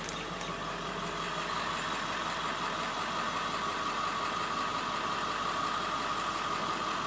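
Steady vehicle engine and road noise heard from inside the cabin, with a steady high hum and no sudden events.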